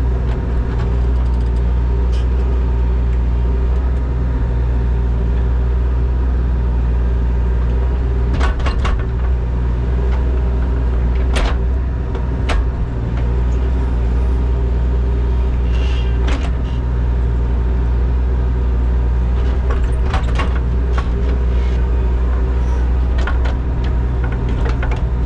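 Mini excavator's diesel engine running steadily while digging, with several sharp clanks and knocks scattered through.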